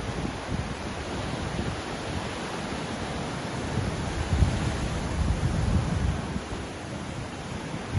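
Ocean waves washing in, a steady rush of surf that swells a little about halfway through and eases again near the end.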